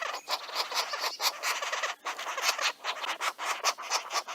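Rapid, irregular scratching and tapping on wood, several strokes a second, from a green woodpecker working at its tree-cavity nest.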